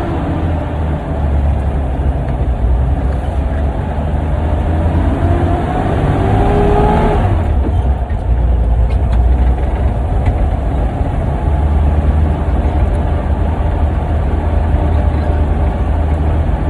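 Toyota truck engine running under way with a steady low drone. From about four seconds in its pitch rises as it pulls, then drops away suddenly at about seven and a half seconds.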